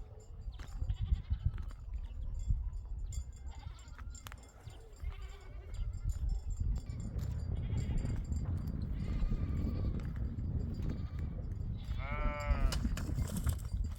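Several bleats from a sheep or goat flock, the loudest and longest call coming near the end, over a steady low rumble.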